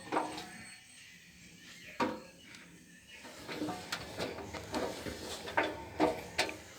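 A series of light knocks and clicks, one at the start, one about two seconds in, then several in quick succession in the second half.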